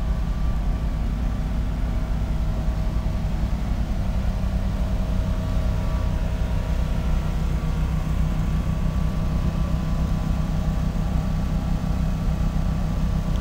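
Steady low drone of a stationary passenger train idling, with a few faint steady higher hums over it.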